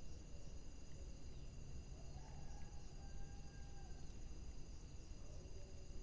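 Wood fire burning with a low steady rumble and a few faint crackling pops, over a steady high-pitched trill in the background. A faint thin whistle is held for a second or two around the middle.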